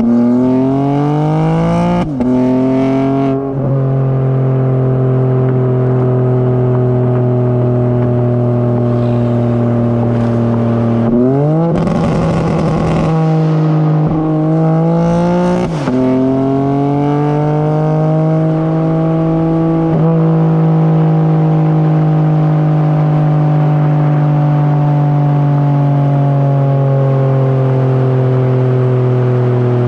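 BMW G82 M4 Competition's twin-turbo inline-six, with high-flow cats and downpipes, pulling hard with two quick upshifts near the start, then cruising with the revs slowly sinking. About eleven seconds in it revs up again with a brief rush of noise, upshifts around the halfway point, and settles into a long steady cruise.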